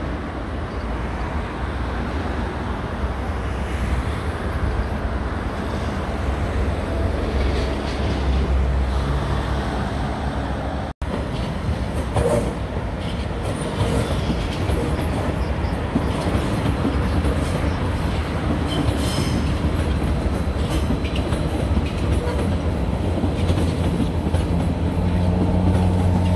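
A tram and car traffic running along the street. After a brief cut about 11 seconds in, an Athens Metro Line 1 electric train passes close below, its wheels clicking over the rails, with a steady motor hum coming in near the end.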